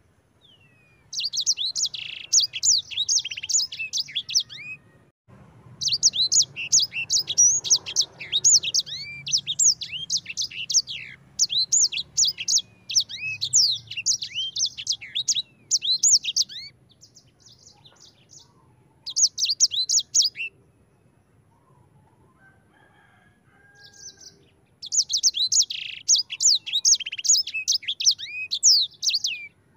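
Sanger songbird singing long, rapid rolling phrases of high chirps and trills. The phrases come in bursts of a few seconds, with short pauses between them.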